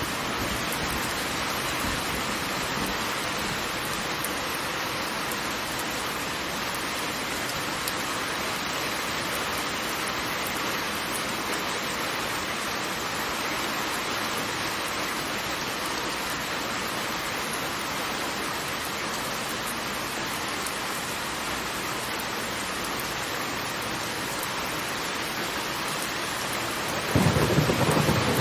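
Steady, even hiss of heavily falling water. Near the end a louder, deeper rush comes in suddenly.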